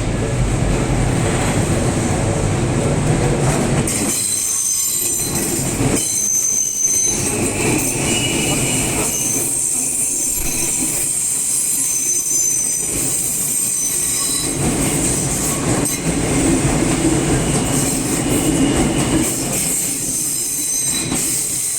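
Odakyu Romancecar GSE (70000 series) electric express train running past on the rails, a steady rumble. From about four seconds in, the wheels give a high-pitched squeal that comes and goes.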